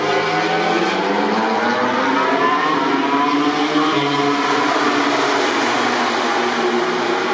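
Several MotoGP prototype race motorcycle engines running at high revs at once, their overlapping pitches slowly rising and falling.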